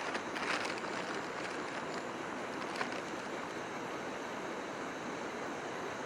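A river rushing steadily: an even, continuous water noise. A single short click sounds about three seconds in.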